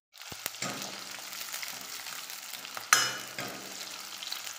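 Green chillies sizzling and frying in hot oil in a kadai, a steady hiss with a few faint clicks. A sharp clink about three seconds in is the loudest sound.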